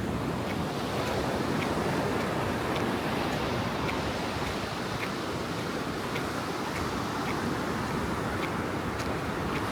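Ocean surf washing steadily onto the beach, an unbroken rush of breaking waves, with faint light ticks about once a second.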